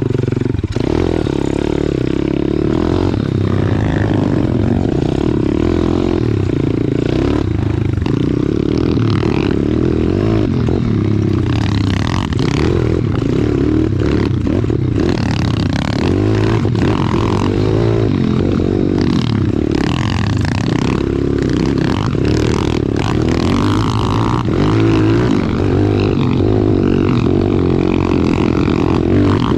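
Small single-cylinder four-stroke pit bike engine running hard as it is ridden, its pitch rising and falling with the throttle, with scattered knocks and rattles throughout.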